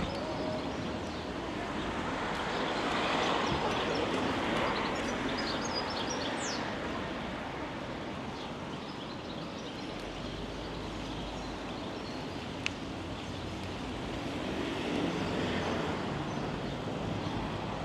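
Steady rushing outdoor noise of a bicycle ride, swelling twice, with a few short bird chirps and one sharp click about two-thirds of the way through.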